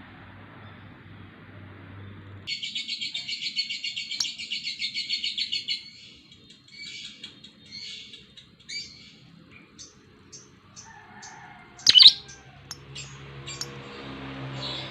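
Lovebird calling: a long rapid pulsed trill lasting about three and a half seconds, then scattered short chirps and one loud sharp call. A low hum is heard at the start and again near the end.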